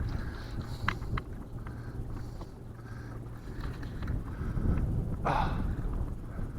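Wind rumbling on the microphone in an open boat, with a few light clicks and knocks from handling fishing gear while a catfish is being reeled in.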